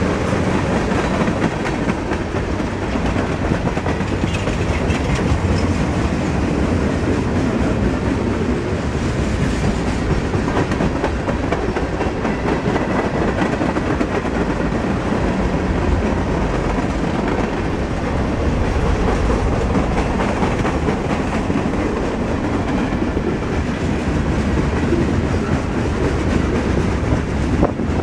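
Freight train of tank cars and boxcars rolling past, its steel wheels on the rails making a steady rumble with rapid clicks.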